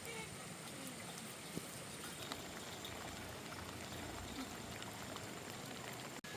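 Steady hiss of water with faint scattered ticks; it cuts out for a moment near the end.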